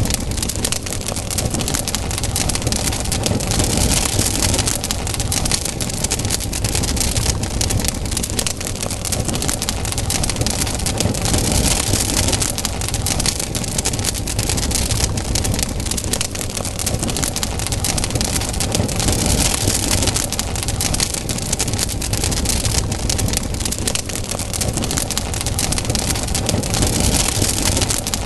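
Wood campfire burning, with a dense, continuous crackle of small pops over a low rumble of the flames. A rushing hiss swells and fades every seven or eight seconds.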